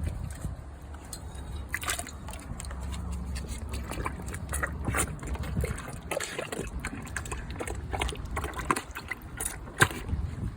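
Pool water splashing and sloshing as a bull terrier dunks its nose and head in after dog biscuits: a string of small irregular splashes, with a sharper one near the end.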